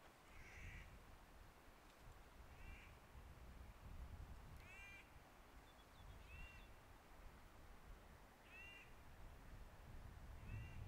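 A bird giving short, crow-like calls, repeated about every two seconds, faint over a low rumble.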